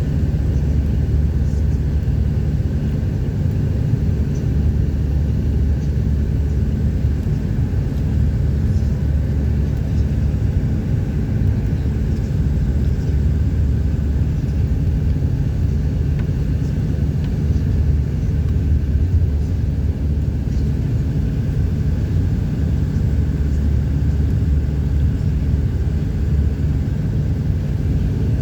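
Steady low rumble of a vehicle driving along a motorway, engine and tyre noise running evenly.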